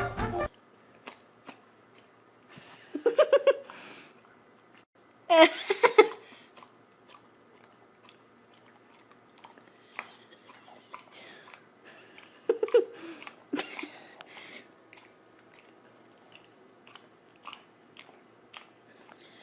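A dog smacking and licking at sticky peanut butter: a run of wet mouth clicks, with a few short vocal noises, the loudest about five and a half seconds in.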